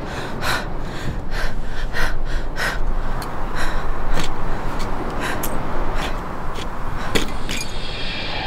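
A woman's short, sharp gasps, about a dozen at irregular intervals, over a steady hiss.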